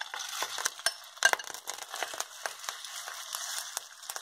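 Marinated chicken sizzling as it lands in hot oil in a nonstick wok: a steady hiss with many sharp crackles and clicks, the loudest about a second in. The sizzle is not that loud, the pan kept at moderate heat rather than high wok heat.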